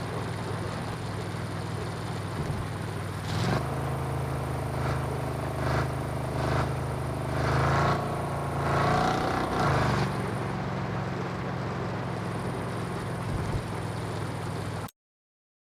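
Truck engine running, working harder with rising revs and rushes of noise from about three and a half to ten seconds in, then settling back to a steady run; the sound cuts off suddenly near the end.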